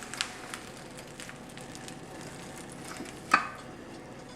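Faint scattered clicks and creaks from a car being let down on a floor jack, with one sharper metallic clink about three seconds in.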